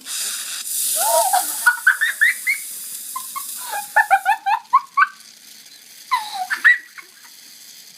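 A vinegar and bicarbonate of soda reaction fizzing under the volcano's lid: gas hissing out for about four seconds, with a run of short, rising, squeaky whistles as it forces its way past the lid, and a few more squeaks near the end.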